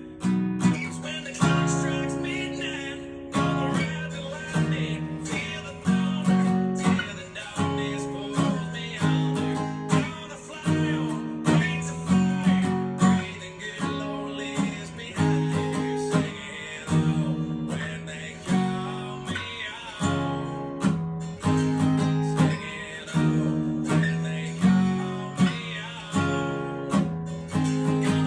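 Acoustic guitar strummed in a steady rhythm, each chord ringing and decaying before the next stroke, working through an E♭ minor, G♭, D♭, A♭ progression.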